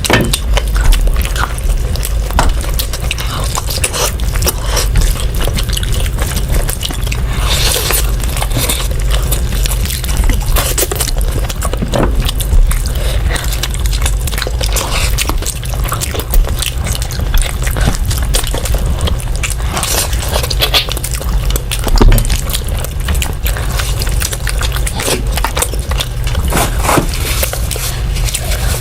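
Close-up eating sounds of someone eating rice and curry: chewing and wet mouth sounds, with short scrapes and clicks, over a steady low hum.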